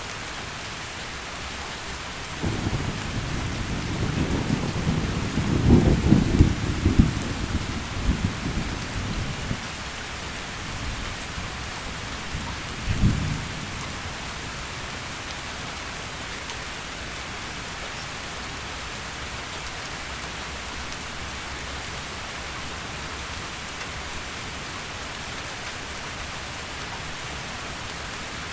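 Steady heavy rain throughout, with a long rumble of thunder rising in several peaks from about two seconds in and fading out near ten seconds, then a shorter, fainter thunder rumble a few seconds later.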